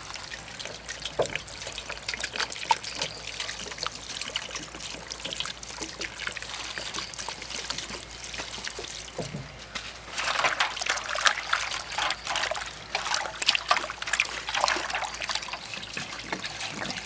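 Water trickling and splashing in an irregular patter, busier and louder from about ten seconds in.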